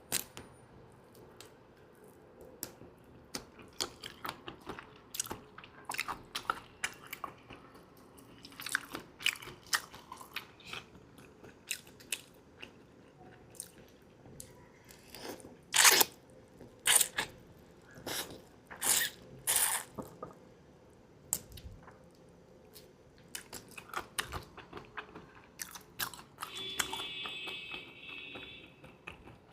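Close-up chewing and crunching of seafood, with many sharp bites and crackles; the loudest crunches come in a cluster about halfway through. A brief high squeaky tone sounds near the end.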